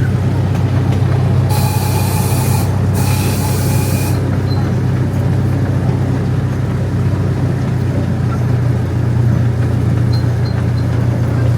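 Small park train's engine running with a steady low hum. About one and a half seconds in, two blasts of a breathy train whistle, each about a second long, with a short gap between them.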